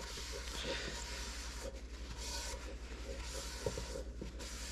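Soft, irregular rubbing and light scraping at a cooking pot as the oil is tipped and cleared out of it, over a steady low hum.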